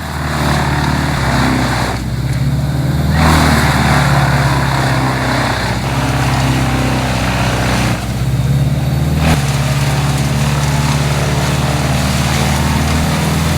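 Vermeer BC2100XL brush chipper's diesel engine running steadily under load, with a loud grinding rush of wood being chipped over it. The rush drops away about two seconds in and again around eight seconds in, each time returning a second or so later.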